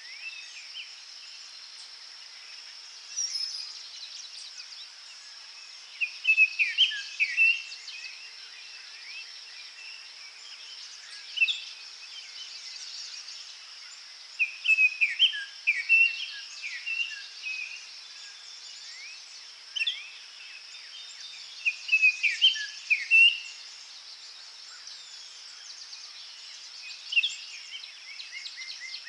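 Forest birds singing: short phrases of quick rising and falling whistled notes, repeated every few seconds, over a steady high-pitched background hiss.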